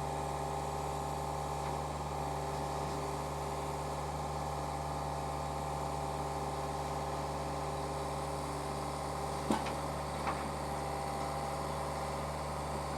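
An engine idling with a steady, unchanging hum. Two light clicks come about two-thirds of the way through.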